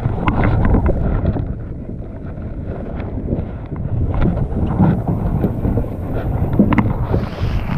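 Wind buffeting the microphone on a fishing boat: an uneven low rumble, with a few faint clicks.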